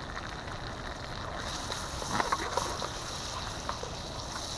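Chopped pecans and brown sugar sautéing in butter in a pan: a steady sizzle that grows a little over a second in, with a few clicks about two seconds in. Wind rumbles on the microphone underneath.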